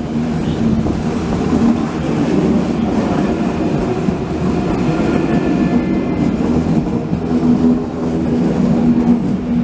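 ICE high-speed electric train rolling slowly past along the platform: a steady, loud rumble of wheels and running gear on the track.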